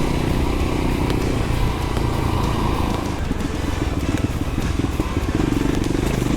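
Trail motorcycle engine running under way with a steady drone. About three seconds in, the note turns choppier and more uneven.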